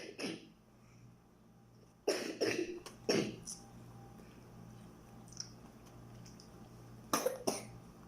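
Coughing in short bouts: one cough at the start, three in quick succession a couple of seconds in, and two close together near the end.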